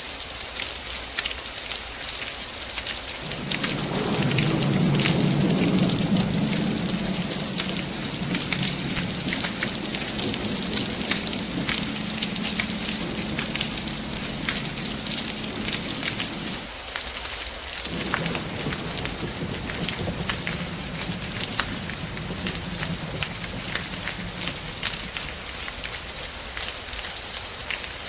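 Heavy rain falling and pattering on surfaces, a dense hiss of drops. A loud low rumble with a steady hum in it comes in about three seconds in, cuts out abruptly for a second midway, then returns and fades.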